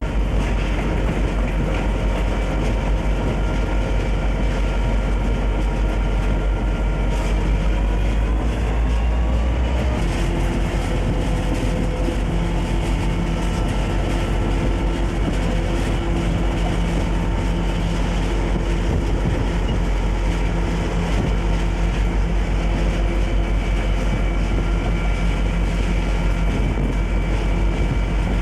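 Conrail diesel locomotive running steadily with a heavy low rumble. Its engine note climbs from about seven seconds in and then holds at a higher, steadier pitch.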